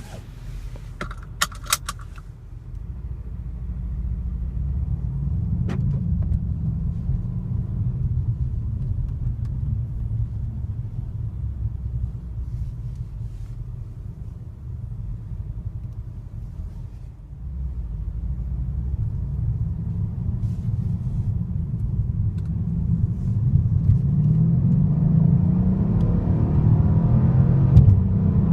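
Mercedes-AMG E63 S's 5.5-litre twin-turbo V8 pulling hard under acceleration, a deep low rumble that swells, eases off in the middle, then builds again with rising pitch toward the end. About a second in there is a short high tone with a few sharp clicks.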